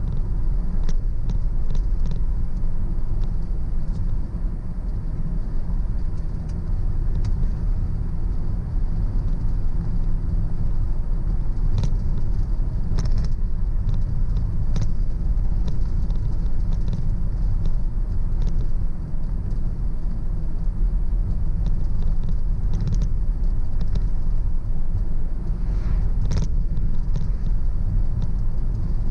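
Car driving on a country road: a steady low rumble of road and engine noise, with scattered light clicks and rattles.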